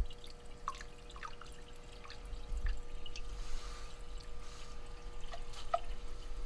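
Engine flush additive being poured from its bottle into an engine's oil filler: a click at the start, then irregular dripping and splashing of liquid.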